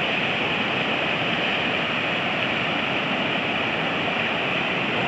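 A river in flood, swollen after heavy rain, rushing past in a steady, unbroken wash of fast-moving water.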